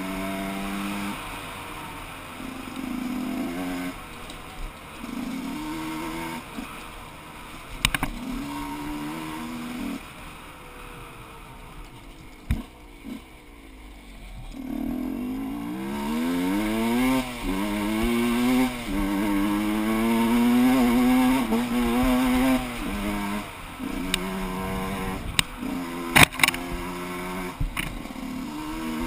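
Two-stroke single-cylinder engine of a Gas Gas EC 125 enduro motorcycle heard from on board, revving up and down through the gears. It eases off to a low, quieter run around the middle, then climbs in pitch through a long pull. A few sharp knocks come through, the loudest near the end.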